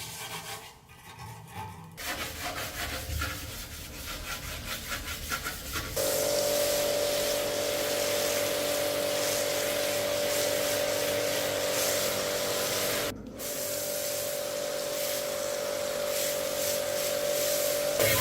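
Workshop tool work: a few seconds of uneven rubbing or scraping, then a power tool running steadily with a constant whine. It cuts out briefly about two-thirds of the way through and starts again.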